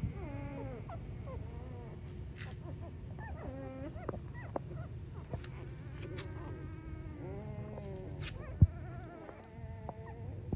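Newborn puppies whimpering and squeaking, many short high whining calls overlapping one after another. A single dull thump about eight and a half seconds in, over a steady low hum.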